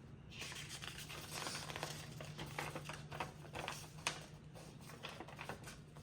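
Light rustling and scattered small clicks from small parts being handled, over a steady low hum.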